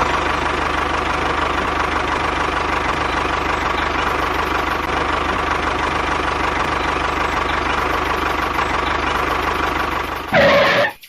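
Small engine running steadily at idle with a fast, even chug. Near the end a brief, louder higher-pitched sound comes in, then the engine sound cuts off.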